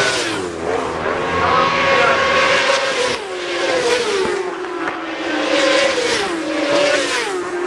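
Racing superbike engines at high revs, several at once, pitch climbing and then dropping sharply several times with gear changes and braking.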